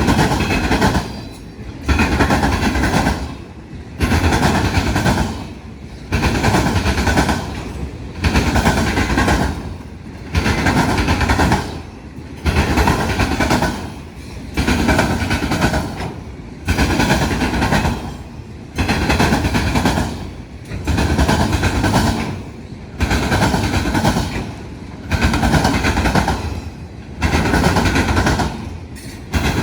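Union Pacific autorack freight cars rolling past, their steel wheels clattering over the rail crossing diamond. The noise swells and dips in a regular rhythm about every two seconds as car after car goes by.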